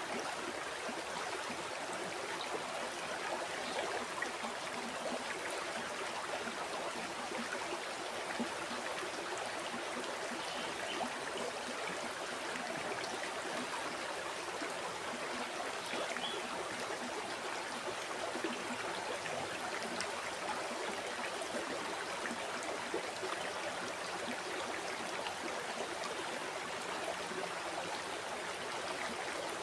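A river flowing, a steady rush and babble of water with small gurgles running through it.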